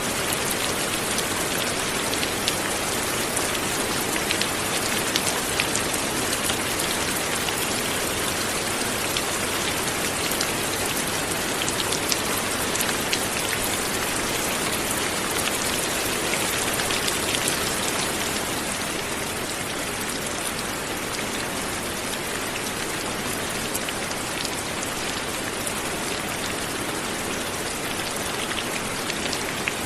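Light rain falling steadily, a constant hiss with many small drops pattering on a surface; it eases slightly about two-thirds of the way through.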